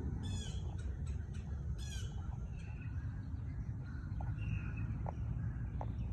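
Two loud bird calls about a second and a half apart, over a steady low rumble, with a few faint short chirps later on.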